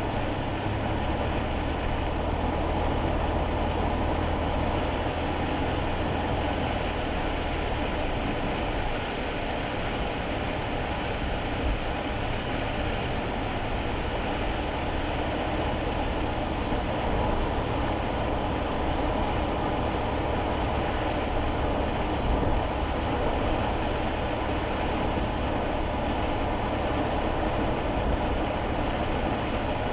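Steady road and tyre noise with engine drone inside a moving kei car's cabin, driving on rain-wet roads. A low engine hum stands out for about the first nine seconds, then blends into the even rumble.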